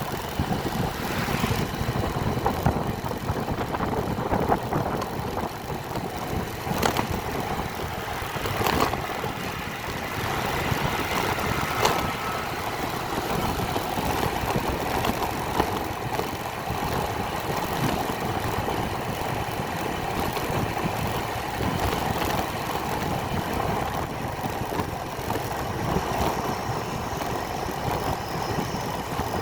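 Motorcycle engine running steadily while riding, mixed with road and wind noise, with a few short knocks.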